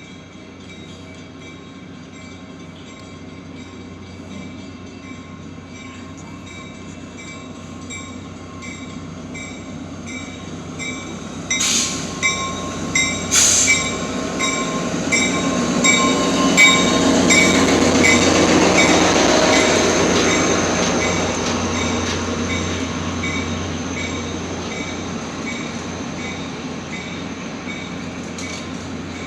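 Train rolling past on the rails, a steady rumble that grows louder to a peak a little past the middle and then slowly fades, with steady high wheel-squeal tones and a few sharp clacks partway through.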